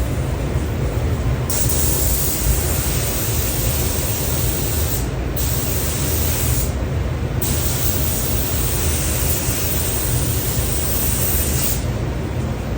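Compressed-air paint spray gun hissing as automotive paint is sprayed in three long passes, with short breaks after about five and seven seconds and stopping near the end, over a steady low rumble.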